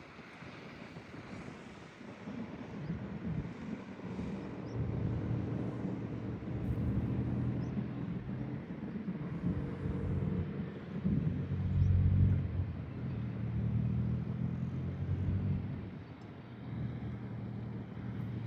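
A vehicle engine running under way, growing louder about three seconds in, with wind buffeting the microphone.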